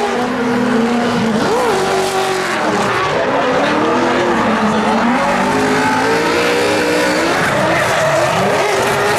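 Drift cars sliding through a competition run, engines revving up and down over steady tyre squeal.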